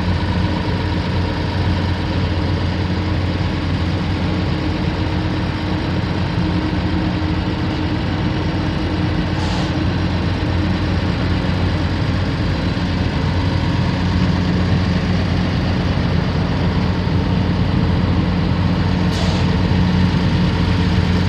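Komatsu PC450LC-8 excavator's six-cylinder diesel engine idling steadily.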